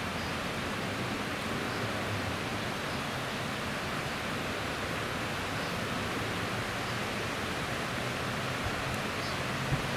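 Heavy rain falling in a steady, dense hiss, with one short low thump just before the end.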